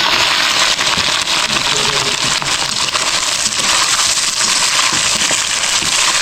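Food frying in hot mustard oil in a pan: a steady sizzle with many small crackles.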